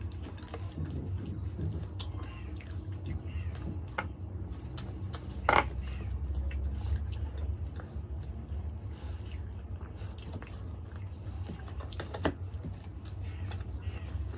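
Close-up eating sounds: people chewing bites of methi paratha, with scattered small clicks and taps, the sharpest about five and a half seconds in, over a steady low hum.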